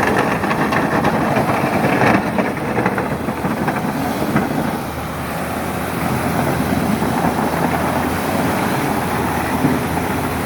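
Engine of heavy machinery running steadily, with some clattering in the first few seconds.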